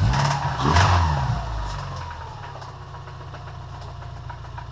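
A 2001 Subaru Forester's EJ25 flat-four engine is revved twice in quick succession, then drops back to idle with a steady knocking. The owners take this for a knock in the crankshaft.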